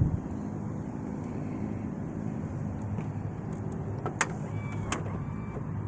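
Power liftgate of a 2014 Nissan Armada closing under its motor over a steady low vehicle hum, with sharp clicks about four and five seconds in as it latches.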